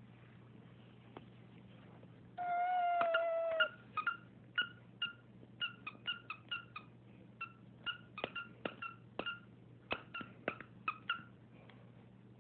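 A pet cat making one long, level meow, then a quick run of short, high chirps, some in pairs, for about seven seconds.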